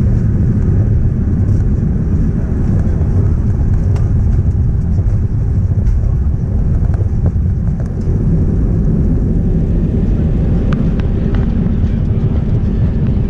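Airbus A319 cabin noise: a steady low rumble of the jet's engines and airflow.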